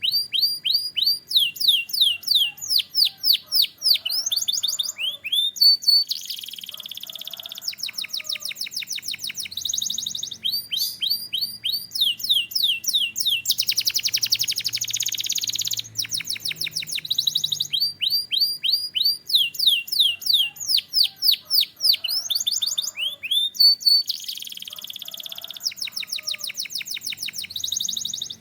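Canary singing a long, continuous song: fast trills of repeated down-slurred notes, broken by a few denser rolling, buzzy passages, the longest about halfway through.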